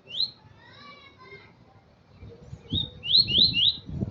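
Male double-collared seedeater (coleiro) singing. A sharp rising whistled note opens, followed by a softer warbled phrase. Near the end comes a quick run of three rising whistled notes, the loudest part, over low knocking noise.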